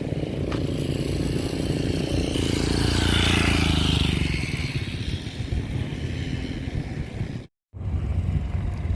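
A motor vehicle engine running, swelling louder about three seconds in and easing off again, with the sound cutting out for a moment near the end.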